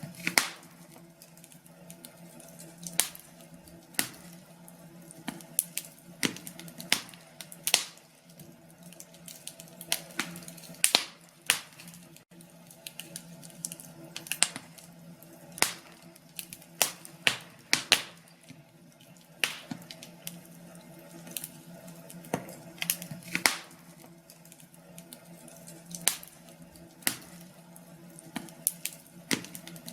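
Wood fire crackling: irregular sharp pops, one or two a second, over a faint steady hum.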